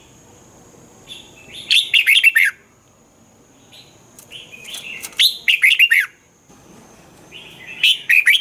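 Red-whiskered bulbul singing: three short phrases of quick, falling whistled notes, about three seconds apart.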